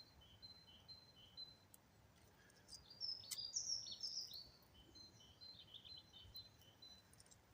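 Faint songbird singing: a short phrase alternating between two high notes, repeated several times, with a louder, busier burst of song about three to four seconds in.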